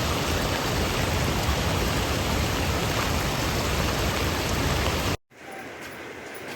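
Steady rushing water noise with no pitch, which cuts off abruptly about five seconds in and leaves a much quieter background with a few faint clicks.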